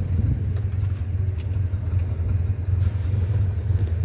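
A 1958 Sunbeam Rapier's four-cylinder engine idling steadily while stone cold, with a low, even rumble. A few faint light clicks sound over it.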